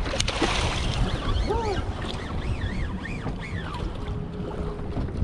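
Wind buffeting the microphone on a small boat at sea, a steady low rumble. A few sharp clicks come just after the start, and a short run of high rising-and-falling calls sounds in the middle.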